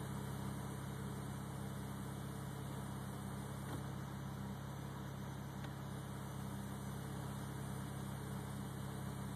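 Car engine running at a steady speed, heard as an even low hum that does not rise or fall.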